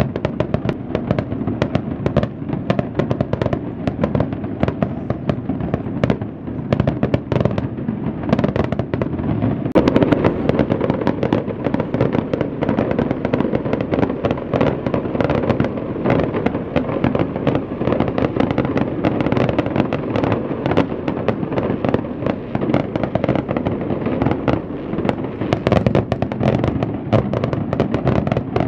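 Fireworks display: a dense, continuous barrage of bangs and crackling, many reports a second without a break, slightly louder from about a third of the way in.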